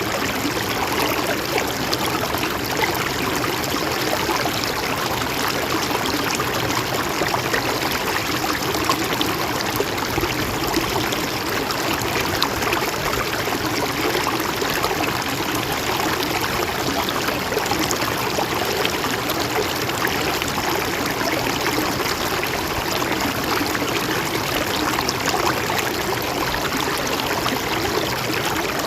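Mountain stream flowing steadily over rocks, a constant rushing and trickling of water.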